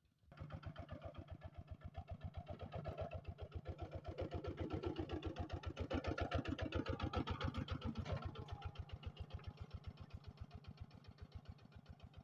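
Kubota RT walking tractor's single-cylinder diesel engine running with a fast, even chugging of about eight beats a second. It comes in suddenly right at the start, grows louder through the middle, and eases back down about two-thirds of the way through.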